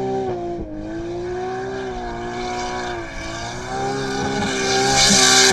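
Car engine running at a fairly steady pitch, dipping briefly about half a second in and again near three seconds, then climbing a little toward the end.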